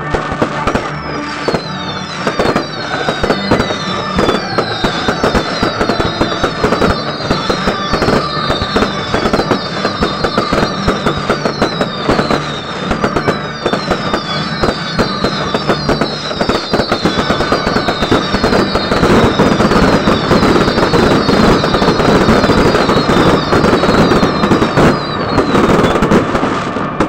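A fireworks display crackling densely without a break, with a stream of overlapping whistles that fall in pitch. The crackling grows louder and thicker over the last third.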